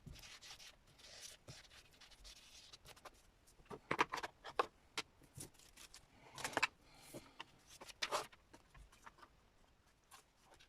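Paper and card pieces being handled on a craft desk: soft rustling, with clusters of short taps and rustles about four, six and a half and eight seconds in.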